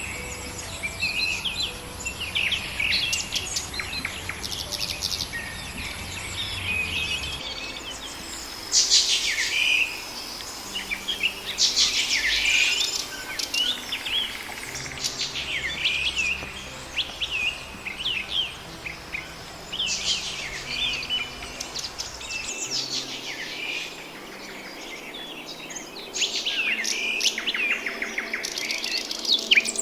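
Several small birds chirping and calling over one another in quick short notes and trills, with a quieter stretch about three-quarters of the way through.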